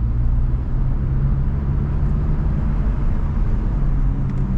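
2025 Honda Civic Type R's turbocharged 2.0-litre four-cylinder engine running steadily under way, with tyre and road noise, heard from inside the cabin.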